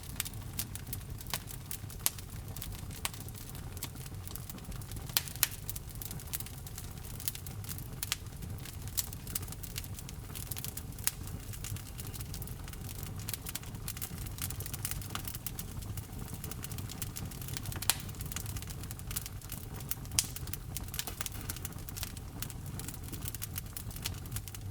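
Wood fire burning in a fireplace: dense, irregular crackling with a few louder pops, over a steady low rumble of the flames.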